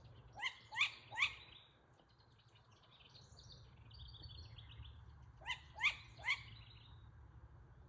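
Owl calling: two sets of three short, quick, rising calls, the first a moment in and the second about five and a half seconds in, with faint chirping between. They come while the owl is restless and flying back and forth.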